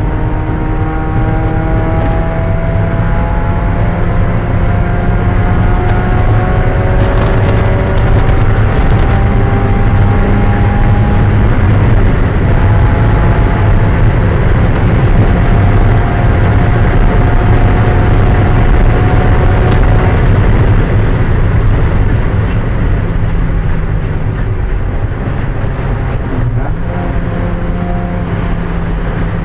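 1995 Mazda Miata's 1.8-litre four-cylinder engine under racing load, revs climbing steadily in each gear with shifts between, over a continuous low drone; it eases off about three-quarters of the way through.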